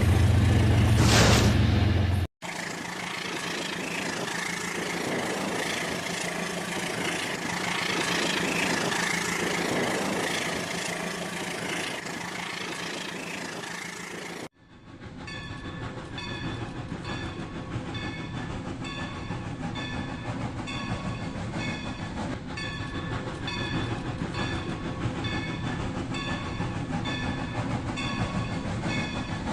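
Toy train running on its track, its wheels clicking over the rail joints in a quick, even rhythm. There are abrupt cuts between clips, and the first few seconds are a louder hum.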